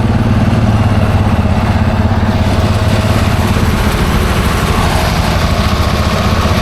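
John Deere 4430 tractor's six-cylinder diesel engine running steadily while pulling a round baler that is forming a bale.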